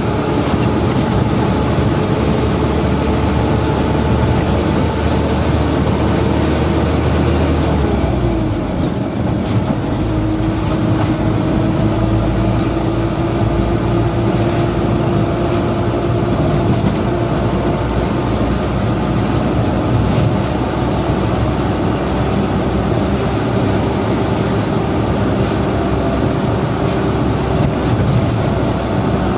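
Dump truck engine running under way, a loud steady drone with a whine in it. The engine note drops about eight seconds in, then climbs slowly again over the rest of the stretch.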